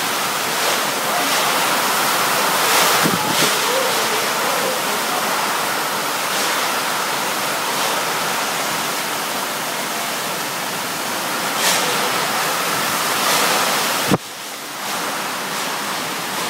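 Summer storm: strong wind and heavy rain making a loud, steady rushing noise, with wind buffeting the microphone. A sharp click about fourteen seconds in, after which the noise drops suddenly and builds back up.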